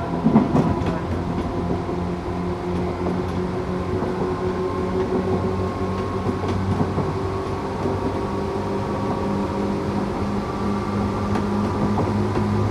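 Tokyu 8500 series electric train running, heard from on board: the whine of its Toyo-built DC traction motors and gearing over a steady rumble of wheels on rail. The whine edges slightly upward in pitch in the second half, and there are a few sharp clicks of wheels over rail joints, the loudest about half a second in.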